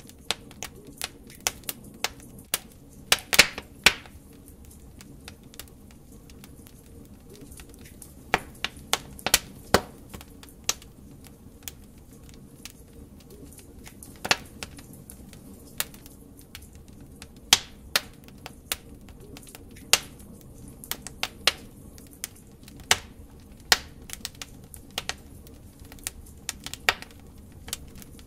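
Burning logs in a fireplace crackling: irregular sharp pops and snaps, some in quick clusters, over a low steady rush of the flames.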